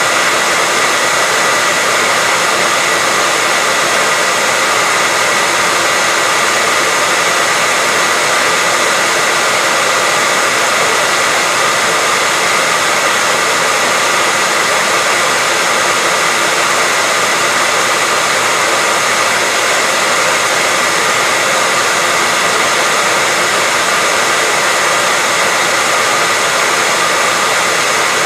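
Hair dryer running steadily at constant speed: an even, unbroken rush of air with a faint high whine from its motor.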